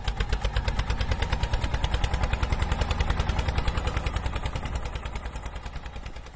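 Engine chugging at a steady rapid beat, about a dozen thumps a second, in the manner of a tractor engine, fading away near the end.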